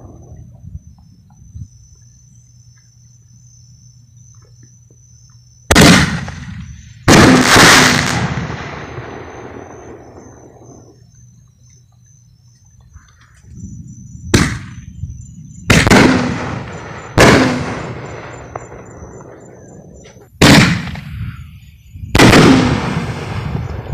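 Aerial firework shells bursting: seven loud booms, each trailing off in a rolling echo over a second or two. Two come about six and seven seconds in, then five more in quicker succession through the second half.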